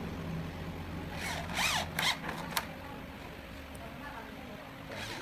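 Three short rasping strokes about a second in, the longest first, over a low steady hum that fades out midway.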